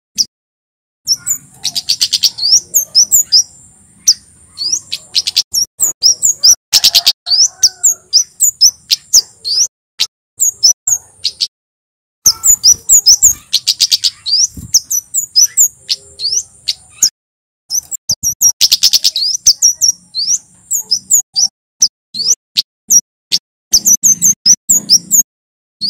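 Male kemade songbird singing: long, loud bursts of rapid, sharp, high-pitched chirps and ticks, broken by brief pauses.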